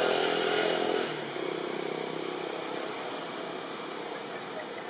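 A motor vehicle's engine running, loud for about the first second and then fading away, over a steady hiss of background noise.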